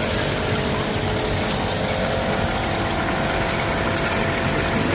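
Steady mechanical running noise, like an engine or machine, with a low rumble and a few faint steady tones, holding at an even level throughout.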